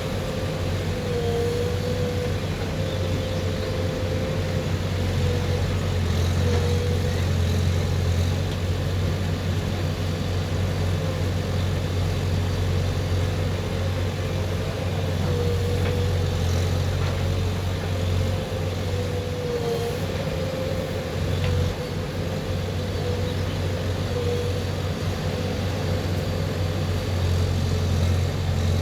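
Heavy diesel engine running steadily at a constant speed, with a thin wavering whine above its low hum.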